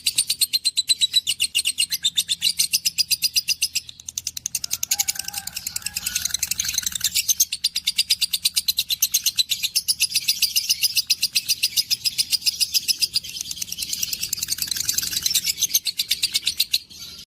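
Birds chirping in a fast, continuous twitter of high chirps, many a second, which cuts off suddenly near the end.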